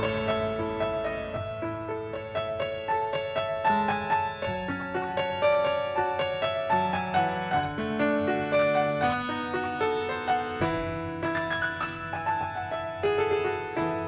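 Instrumental interlude played on a piano or keyboard between sung verses, a melody of separate struck notes over sustained chords.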